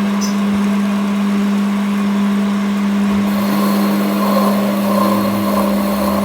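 A machine running with a steady, unchanging hum at one pitch, with fainter higher tones over it.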